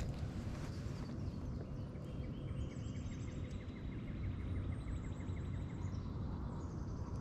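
Birds singing: a fast trill of evenly repeated notes from about two seconds in until near the end, with higher, thinner calls above it, over a steady low outdoor rumble.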